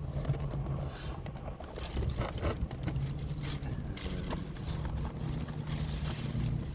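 Steady low hum of a car idling, with scattered light clicks and scrapes of plastic takeout containers being handled.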